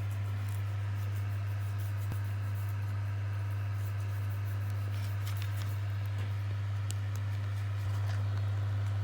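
A steady low electrical-sounding hum, with a few faint light clicks about five to seven seconds in.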